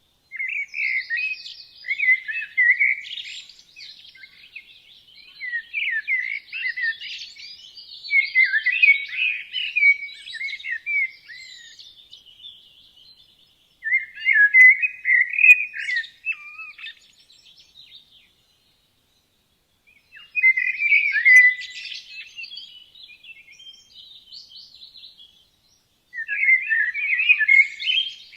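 Songbirds singing in warbled phrases of one to three seconds, with short pauses between the phrases.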